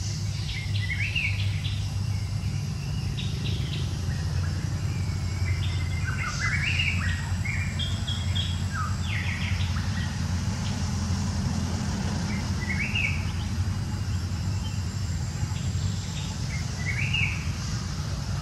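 Birds chirping: short, rising high calls, many together in the first half and a few single ones later, over a steady low hum.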